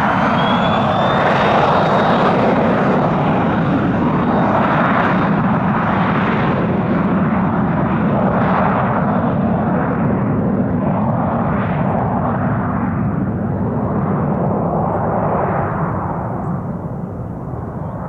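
Embraer Phenom 300 light jet's twin turbofan engines at takeoff power: a loud, steady rushing roar with a high whine near the start, easing slightly toward the end.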